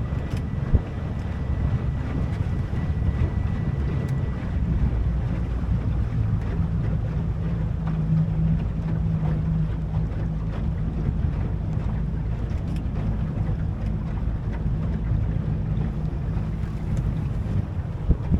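A boat's motor running steadily with a low hum, with wind buffeting the microphone. A faint thin high whine sounds for the first few seconds.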